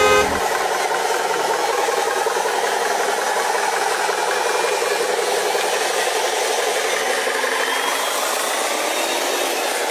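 Radio-controlled model trucks driving: small electric motors and plastic gearboxes whining with a steady rattle, the whine wavering in pitch as speed changes.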